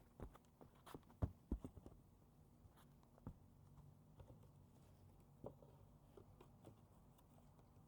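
Faint, scattered knocks and taps of a panel being handled and lined up, with a quick run of them about a second in and a few light clicks after.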